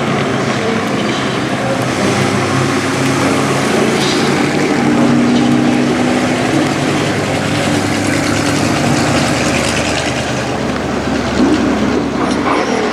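Several hobby stock race trucks' engines running hard together around the track, their overlapping engine notes steady and loud, swelling slightly about five seconds in, with a brief change in pitch near the end.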